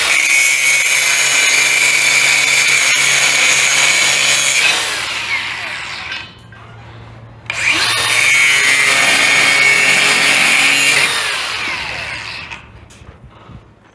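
A high-speed power tool cutting off old bolts in two long runs, each held steady with a high whine. Each run ends with the tool spinning down, the whine falling away, about five seconds in and again around eleven seconds.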